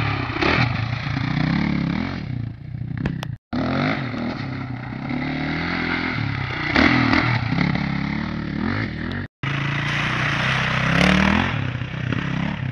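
KTM 525 EXC dirt bike's single-cylinder four-stroke engine revving up and down as it is ridden, the pitch rising and falling as the throttle is opened and closed. The sound drops out completely for a moment twice.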